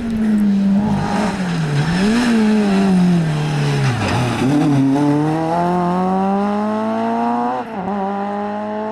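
Rally car engine working hard through a stage: the revs rise and fall, sink to their lowest about four seconds in, then climb steadily for about three seconds. Near the end they drop suddenly at an upshift and then hold steady.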